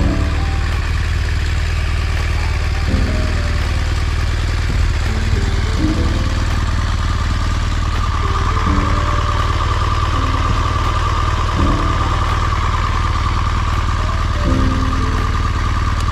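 BMW R 1200 GS motorcycle's 1200 cc two-cylinder boxer engine idling steadily, with background music playing over it.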